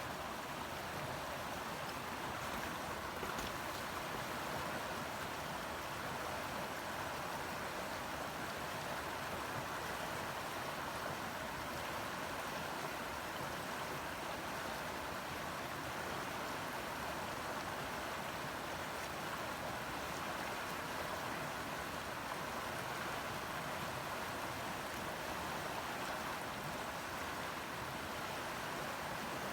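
Steady rushing of flowing river water, an even noise that holds constant throughout.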